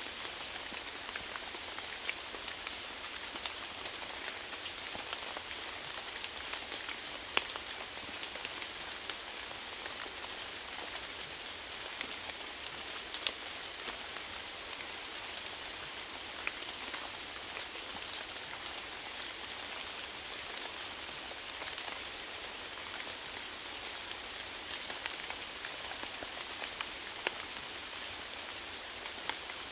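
Steady rainfall: an even hiss of rain with scattered sharper drop ticks striking a surface.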